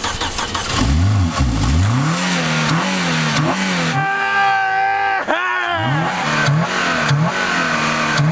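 Car engine, just brought to life on ether starting fluid, being revved up and down again and again. About halfway through it is held at a high rev for a second before it falls back, then the revving resumes.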